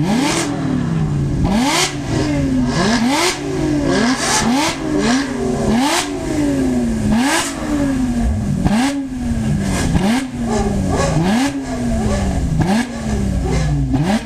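A car engine being revved hard over and over: the pitch shoots up and falls back roughly once a second, with a brief crackle at each peak.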